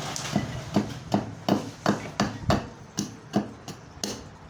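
Hammer blows on wood, a steady run of about three strikes a second.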